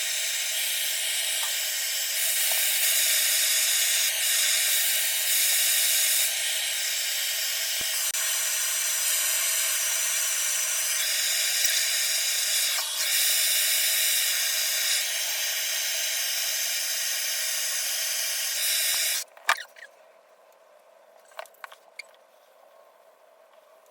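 Handheld hot-air dryer blowing steadily onto freshly thrown clay to firm it up quickly, its level shifting a few times as it moves. It cuts off about 19 seconds in, followed by a few light knocks.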